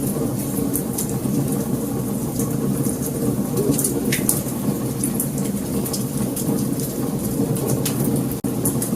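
Wood fire burning: scattered sharp crackles and pops over a steady low rumble of the flames, with one stronger pop about four seconds in. The sound cuts out for an instant near the end.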